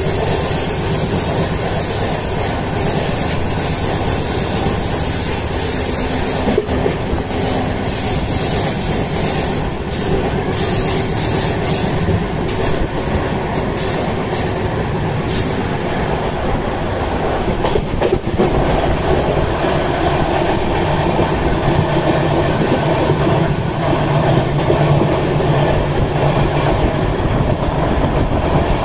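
Janshatabdi Express passenger train running at speed, heard from an open coach doorway: a steady rumble and clatter of the wheels on the rails. The sound is brighter and more broken through the first half.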